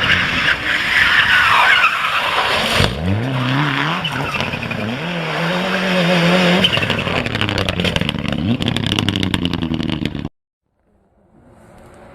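Race car tyres squealing in a skid for about three seconds, then a race car engine revving, its pitch climbing and dropping again and again. The sound cuts off abruptly near the end.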